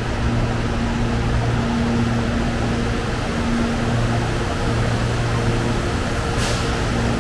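Electric commuter train humming steadily, a low drone that swells and drops out every second or so over a constant rush of noise, with one short hiss about six and a half seconds in.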